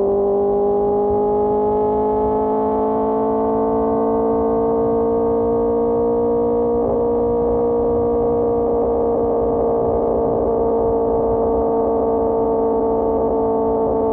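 QJMotor SRK600's inline-four engine and Pure Austin Racing GP1R exhaust at a steady cruise, the note climbing slowly for several seconds as the bike gathers speed and then holding level.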